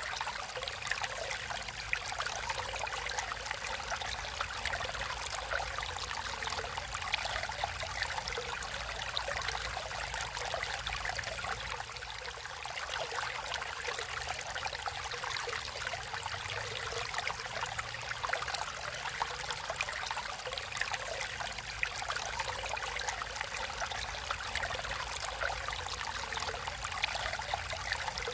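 A natural stream flowing steadily, the water trickling and babbling over stones in a continuous rush with fine splashing detail.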